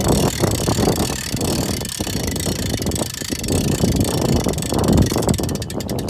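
Hand winch on a boat lift crane being cranked to raise the lift, with a run of quick, even clicks near the end.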